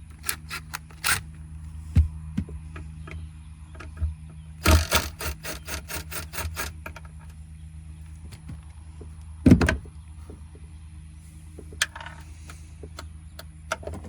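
Hand tools working on a nut: scattered clicks, then a run of quick, evenly spaced clicks like a ratchet wrench turning, then a single loud knock about halfway through. A steady low hum runs underneath.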